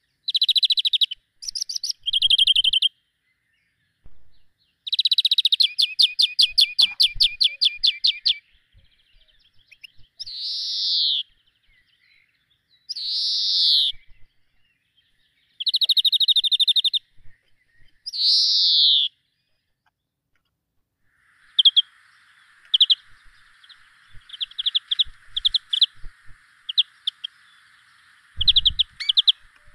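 Songbird singing in separate high phrases, fast trills and downward-sliding whistled notes, with pauses between them. Later on it breaks into rapid short chirps over a steady hiss.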